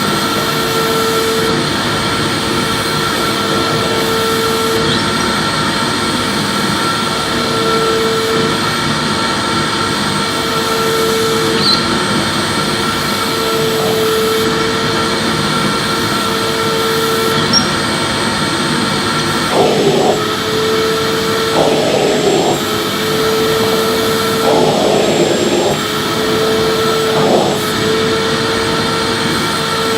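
Electric vacuum cleaner running steadily while being pushed back and forth in sweeping strokes, a lower whine in its note coming and going every two seconds or so. From about two-thirds of the way in, rougher scraping noises of the nozzle on the floor join in.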